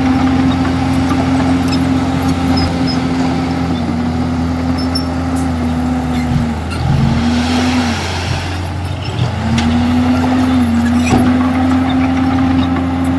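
Komatsu D51EX bulldozer's diesel engine running under load, its steady note dipping and breaking twice around the middle before settling back.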